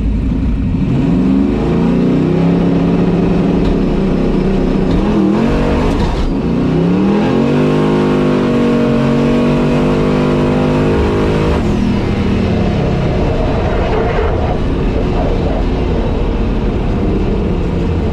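Turbocharged LS V8 of a drag-racing S10 pickup making a pass under full throttle: the engine note climbs, dips briefly about five seconds in, climbs again and holds, then drops away about twelve seconds in as the throttle is lifted. On this pass the tires spun, with the tune left at 7 pounds of boost instead of 5.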